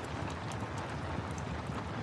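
Steady rain hiss with a wood fire crackling over it: frequent small sharp pops and snaps, scattered irregularly.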